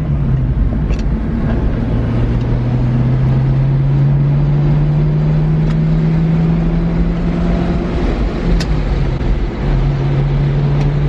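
C5 Corvette's V8 running through a Magnaflow exhaust while driving: a steady drone whose pitch climbs slowly as the car picks up speed, dips briefly about eight or nine seconds in, then holds steady again.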